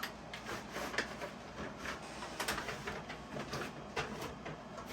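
Handling noise from a boxed model train boxcar and its packaging: irregular light clicks, taps and scrapes, several a second with no steady rhythm.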